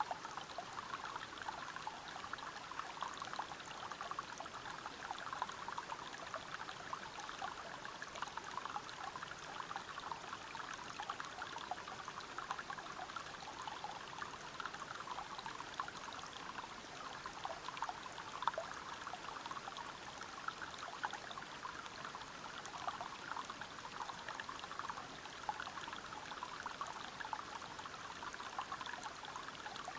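Water of a forest stream and waterfall pouring and splashing over rocks: a steady, even rush made of many small splashes, with no pauses or changes.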